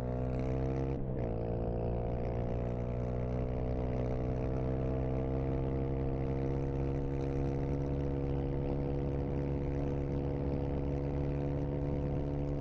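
Dirt bike engine running steadily under way, with a brief break and a pickup in pitch about a second in, then holding an even drone.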